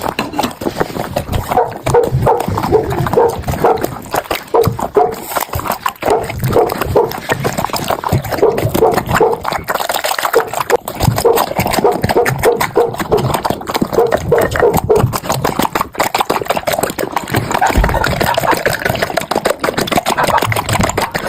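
Golden retrievers eating wet food greedily from a bowl: fast wet chewing, slurping and lapping of soupy food, a dense run of smacks and clicks.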